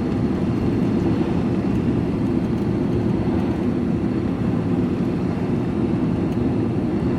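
Steady engine and road noise inside a van's cab while driving along.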